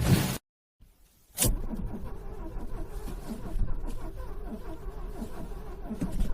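A car engine is cranked on its starter motor in freezing cold and struggles to start. The sound cuts off abruptly near the start, goes completely silent for about a second, then starts again suddenly and runs on steadily with a faint, uneven pulsing.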